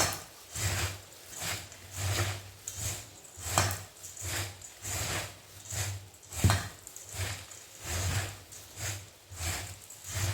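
Muri makha, puffed rice with chanachur and onion, being mixed in a bowl: a dry rustling scrape of the crisp puffed rice with each stroke, repeated steadily at about three strokes every two seconds.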